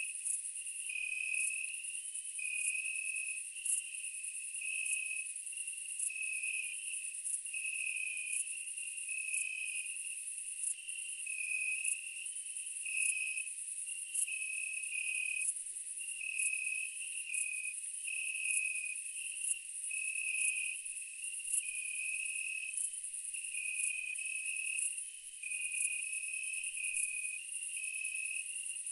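Insect chorus: a steady high-pitched trill with faster ticking on top, over a lower chirping that switches back and forth between two pitches in a repeating pattern.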